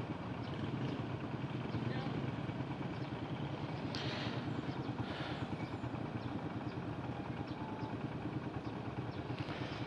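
Motorcycle engine idling steadily, with faint muffled voices in the background.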